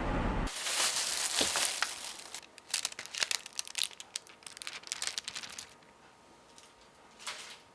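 Crinkling and rustling of something being handled, thick with sharp little crackles for about five seconds, then one short rustle near the end.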